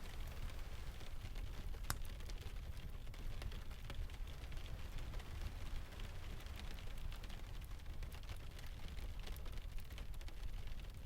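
Steady rain ambience over a deep, constant rumble of distant surf, dotted with scattered sharp clicks; one click about two seconds in is louder than the rest.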